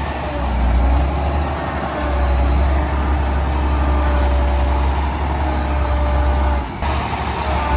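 Heavy diesel engine of earthmoving machinery running steadily under load, a deep rumble with a faint whine over it. The sound drops out briefly near the end.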